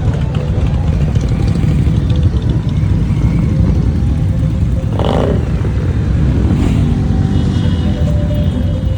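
Motorcycle engines running steadily, with a brief louder burst about five seconds in.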